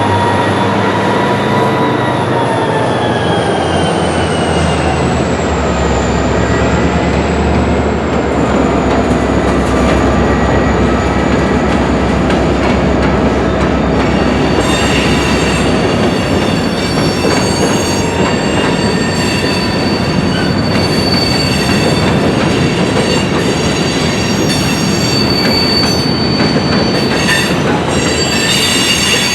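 Freight cars rolling through a rail yard, steel wheels squealing over a steady rumble. A squeal slides down in pitch over the first several seconds, and from about halfway through several higher squeal tones ring together.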